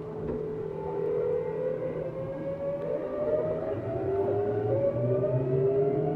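Tokyu 7700 series electric train's traction motors whining as it accelerates, heard from inside the motor car: several tones glide steadily upward in pitch over a low hum.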